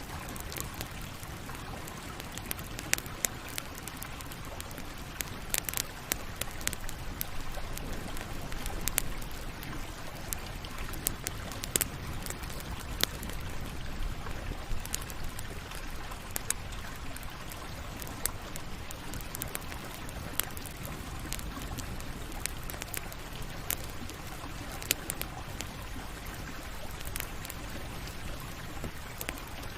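Campfire burning: a steady low rushing hiss with frequent sharp crackles and pops at irregular intervals.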